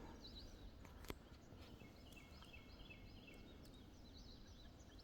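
Faint outdoor quiet with small birds chirping and trilling in short repeated high phrases, and a single click about a second in.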